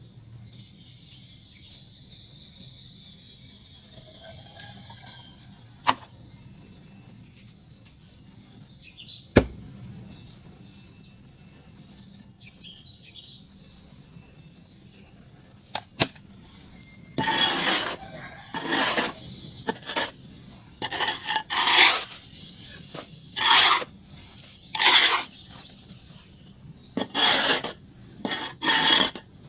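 A few sharp clicks, then from a little over halfway in a run of gritty scraping strokes, each about a second long and unevenly spaced, as pure charcoal is scraped and crumbled.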